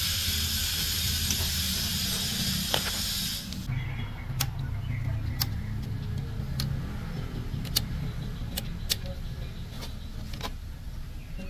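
A loud, steady hiss cuts off suddenly about three and a half seconds in. Scattered sharp clicks and taps follow over a low hum.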